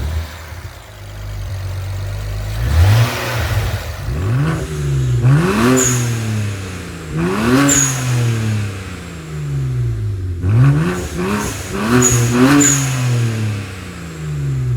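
BMW N54 twin-turbo inline-six engine on its first start after new turbos, revved briefly several times in a row, the engine note rising and falling back each time. No wastegate rattle.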